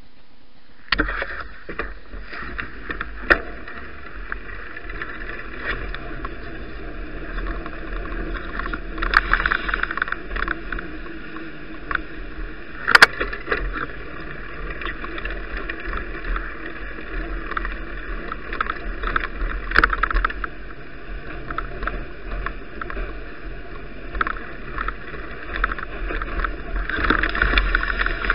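Bicycle riding over snowy roads, heard through an action camera: steady tyre noise with frequent rattles and sharp knocks, and a low wind rumble on the microphone. It starts about a second in.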